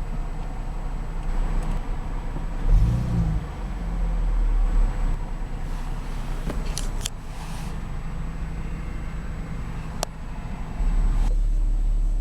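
Steady low rumble of a car idling, with a few sharp clicks about seven seconds in and again near ten seconds. The rumble grows louder about eleven seconds in.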